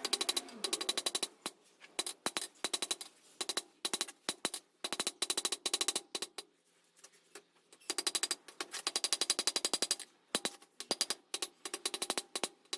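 Rapid, evenly spaced hammer blows on hot steel at an anvil, about seven a second, each with a metallic ring. The blows come in bursts, with a short pause a little past the middle.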